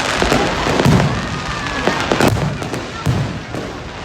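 New Year fireworks going off: a run of sharp bangs and deeper booms, roughly two a second, over a steady crackling rumble.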